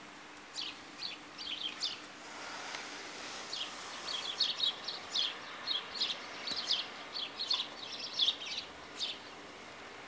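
Small birds chirping: many short, high chirps in quick clusters, densest in the second half, over a steady background hiss.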